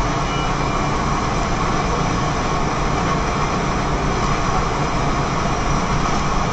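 Steady road noise inside a moving car on a wet highway: tyres hissing on wet pavement with engine and wind rumble, even and unbroken.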